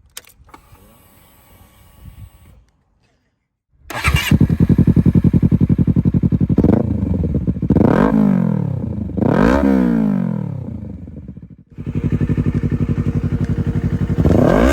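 Honda CBR250RR motorcycle engine and exhaust, coming in sharply about four seconds in and idling loudly. Quick throttle blips rise and fall in pitch about seven, eight and nine and a half seconds in, and another begins near the end.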